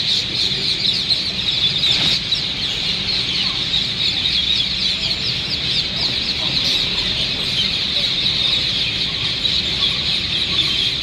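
A large flock of parrots calling together in a tree: a dense, continuous chorus of many overlapping high-pitched calls.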